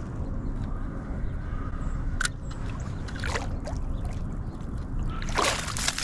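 Low rumble of water and wind around a kayak, with a sharp click about two seconds in. Near the end comes a loud burst of splashing as a chain pickerel strikes the lure right beside the kayak.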